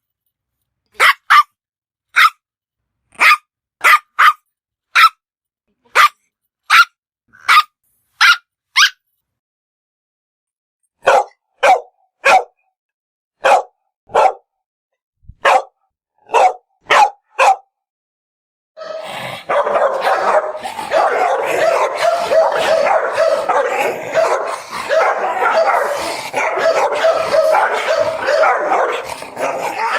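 Dog barks from a series of separate recordings: single sharp barks about one a second, a short pause, a run of lower-pitched barks, then, from about two-thirds of the way in, a dense, unbroken stretch of barking.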